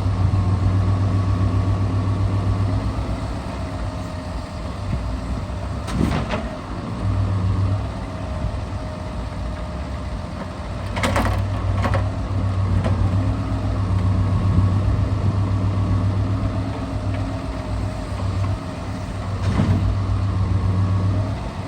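Scania R650's V8 engine running steadily while it drives an Epsilon timber crane, with a steady hydraulic whine and the engine hum swelling and easing in stretches as the crane works. A few sharp knocks come through, the loudest about a quarter of the way in and twice around the middle.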